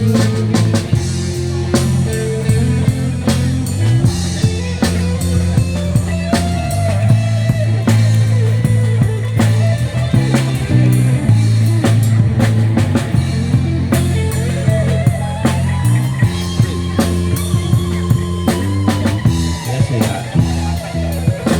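Band playing an instrumental break of a rock ballad: drum kit keeping a steady beat over bass and guitar, with a lead melody line that glides between notes.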